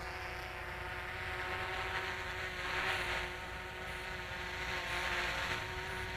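Electric RC model airplane's motor and propeller whirring steadily in flight, with a hiss that swells and fades about every two seconds as the plane circles.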